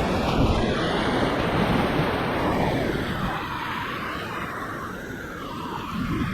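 Rushing whitewater: a steady, dense rush of river water, a little louder in the first half.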